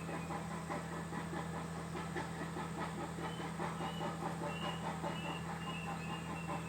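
Young birds chirping in quick repeated notes, with a few thin, high whistled calls in the second half, over a steady low hum.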